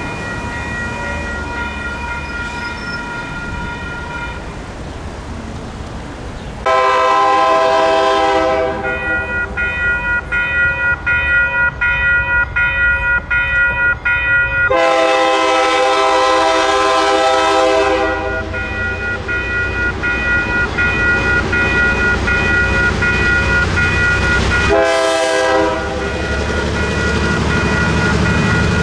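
Passing train's multi-tone air horn sounding long blasts, the first starting about a quarter of the way in and a second about halfway, then a short blast near the end, over the steady low rumble of the train on the rails.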